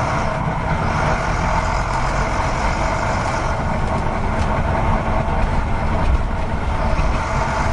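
Recycling truck's engine running steadily, a continuous low rumble.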